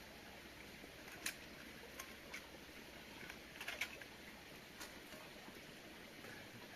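Several faint, sharp clicks and snaps, a few single ones and a quick cluster about halfway through, over a steady low outdoor hiss.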